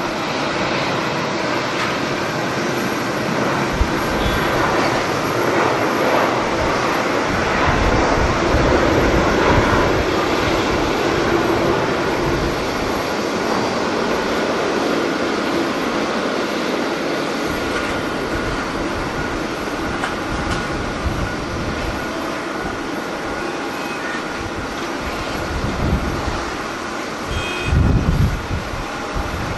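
Jet airliner engines running with a steady rushing noise and a faint high whine, swelling slightly and then easing off. Gusts of strong wind buffet the microphone with low rumbles, most noticeably near the end.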